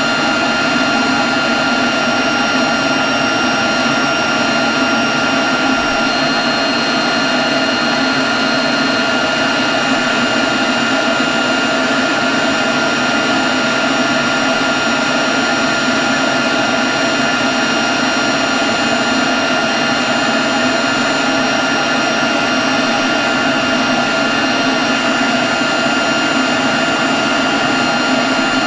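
Leaf blower running at a steady speed: a constant rush of air with a steady high whine over it.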